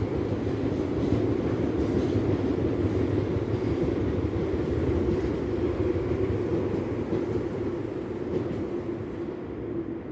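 Tobu Tojo Line electric train running past with a steady rumble, fading away over the last few seconds.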